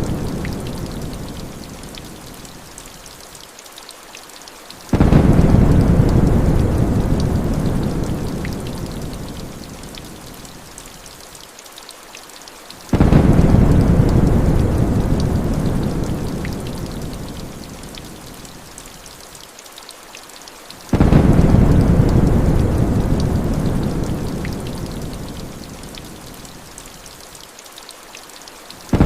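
Steady heavy rain hissing under rolls of thunder. Each roll breaks in suddenly, about every eight seconds, and fades away slowly. The rolls come at exactly even spacing and look the same each time, as in a looped thunder sample.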